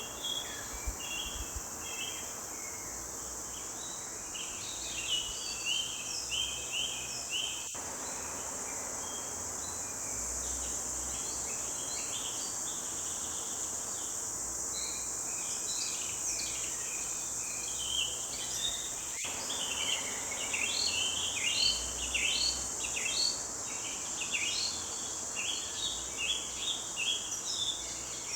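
Several songbirds singing in a forest chorus, short chirping notes in quick runs, busiest in the second half. A steady high-pitched insect trill runs underneath.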